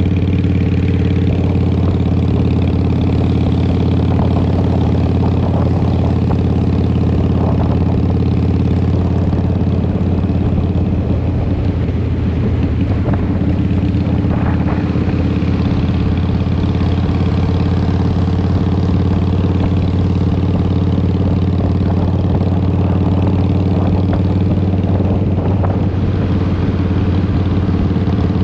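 Harley-Davidson Twin Cam 88 V-twin running through Vance & Hines exhaust pipes, holding a steady engine speed with an even, unchanging note.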